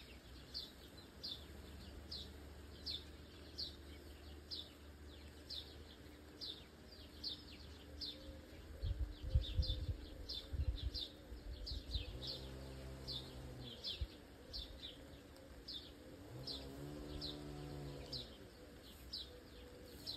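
A bird repeating a short, high, downward chirp more than once a second. A few low thuds come about halfway, and a low hum swells and fades twice later on.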